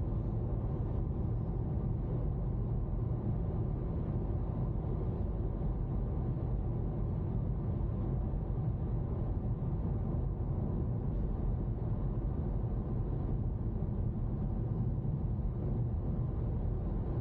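Car running along the road, heard from inside the cabin: a steady low rumble of engine and road noise.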